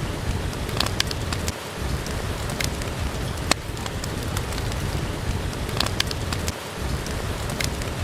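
Steady rain falling, with a low rumble beneath it. A sharp crackle, as from a wood fire burning in a fireplace, cuts in now and then, about half a dozen times.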